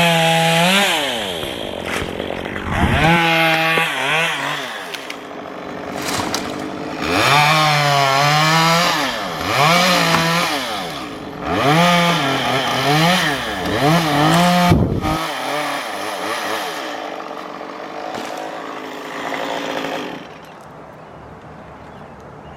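Chainsaw revving up and down in repeated bursts, its engine pitch rising and falling about six times, then cutting off suddenly about fifteen seconds in. Fainter noise follows for a few seconds.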